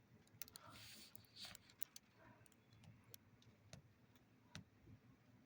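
Near silence, with faint, irregularly spaced small clicks and ticks.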